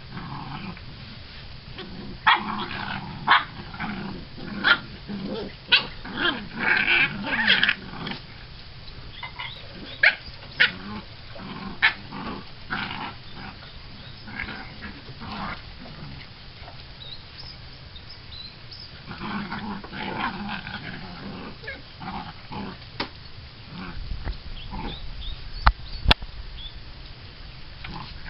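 Half-Labrador puppies growling and snarling as they scuffle over food, with clusters of short, sharp yaps and snaps. The busiest stretch is in the first third, with a second flurry about two-thirds of the way through.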